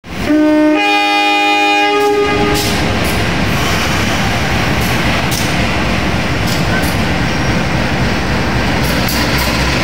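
GE CC203 diesel-electric locomotive sounding its multi-tone horn for about two seconds, the chord shifting partway through. The train then rumbles past with intermittent clacks of wheels over rail joints.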